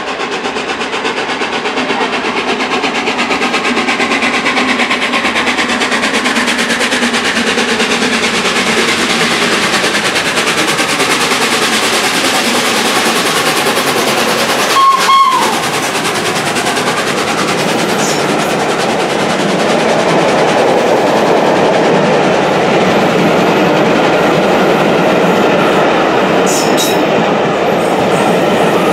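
A train running past on the rails, its noise building over the first few seconds and then holding steady, with a brief sharp break about halfway through.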